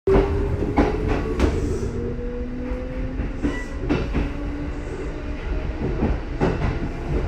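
Kintetsu 1422 series and 2610 series electric train running, with a motor whine that rises slowly in pitch over the first three seconds, a steady rumble, and clacks of wheels over rail joints scattered throughout.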